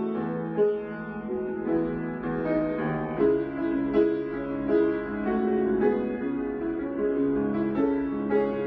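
Slow instrumental keyboard music: held chords with a melody moving over them, without singing.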